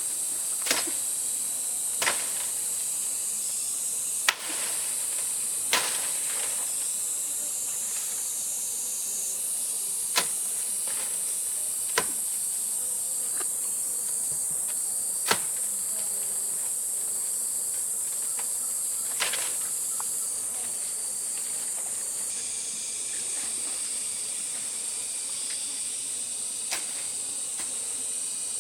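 A steady, high-pitched chorus of insects buzzing, broken now and then by single sharp clicks or knocks.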